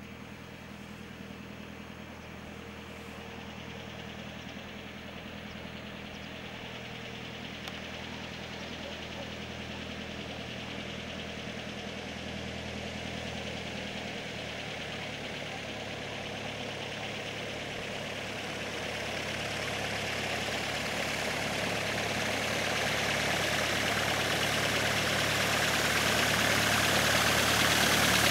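Light aircraft's piston engine and propeller running steadily, growing gradually louder as the plane approaches.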